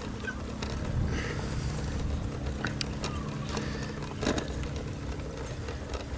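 Bicycle on the move: wind rumbling on the bike-mounted camera's microphone, with a faint steady hum and scattered clicks and rattles from the bike as it rolls along the road.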